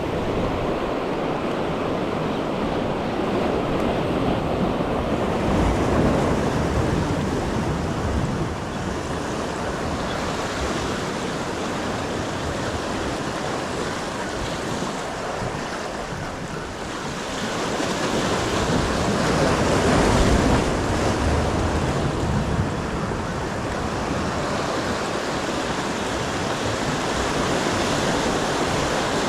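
Waves washing on the shoreline, swelling up about six seconds in and again near twenty seconds, with wind buffeting the microphone.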